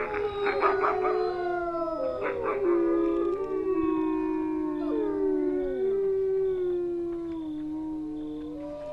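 A wolf pack howling in chorus: several long howls overlap, each sliding slowly in pitch. There are rough yips and barks in the first three seconds.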